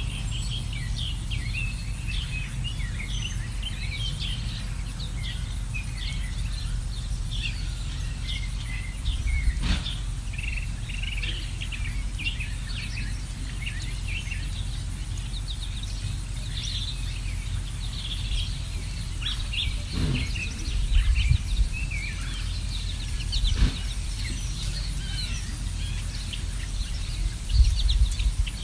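Many small songbirds chirping and twittering continuously, over a steady low background rumble. A few brief low bumps break in around the middle and again near the end.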